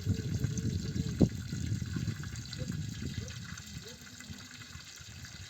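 Water pouring and gurgling, with a single sharp knock about a second in; the liquid sound fades away over the last couple of seconds.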